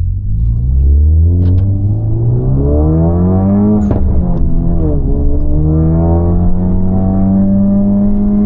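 Honda Civic FL5 Type R's turbocharged 2.0-litre four-cylinder under acceleration, heard from inside the cabin through an HKS Legamax exhaust with an aftermarket downpipe. The engine note climbs steadily, drops sharply about four seconds in as it shifts up, then pulls again and holds.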